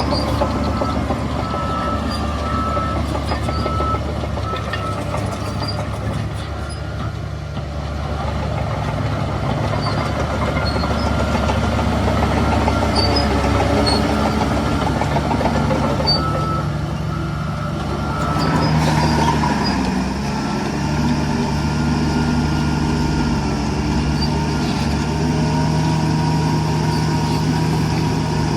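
Heavy diesel earthmoving machinery, dump trucks and bulldozers, running steadily, with a reversing alarm beeping at the start and again later on.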